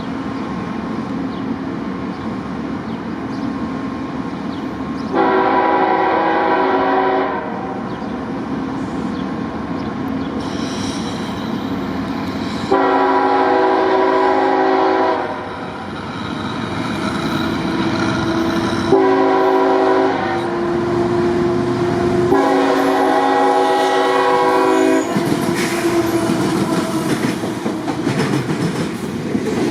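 CSX diesel freight locomotive sounding its multi-tone air horn in the grade-crossing pattern: long, long, short, long. The engine and the rumble and clatter of the wheels on the rails grow louder toward the end as the train arrives.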